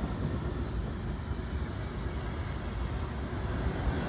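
Freight train passing, a steady rumble of its cars rolling over the rails.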